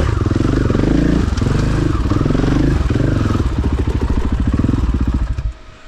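KTM 500 EXC-F dirt bike's single-cylinder four-stroke engine running at low revs, its pitch rising and falling with the throttle and its separate firing pulses audible. The engine sound drops away suddenly about five and a half seconds in.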